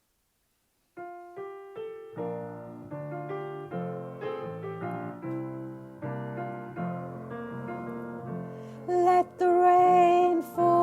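Piano introduction starting about a second in: a few single notes, then chords. Near the end a voice comes in over the piano, singing the melody in long held notes.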